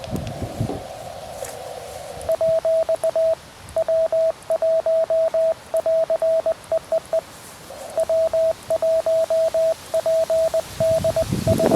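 Morse code (CW) keyed as a single steady tone of short and long elements from a QRP Labs QMX transceiver, with a short break midway. It starts about two seconds in, after a stretch of receiver hiss heard through the radio's narrow CW filter.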